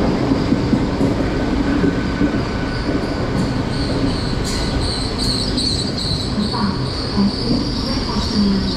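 Great Western Railway Class 800 bi-mode train pulling into the platform. A steady high-pitched squeal from its wheels and brakes grows stronger about halfway through, over the low rumble of the train, with a few light clicks.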